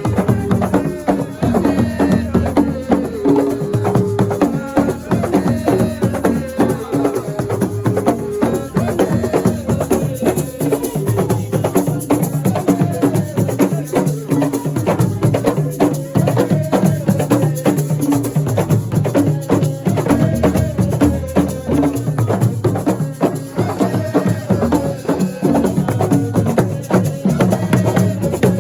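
Assiko music: fast, dense percussion with rattles and sharp wood-block-like clicks over a sustained bass line.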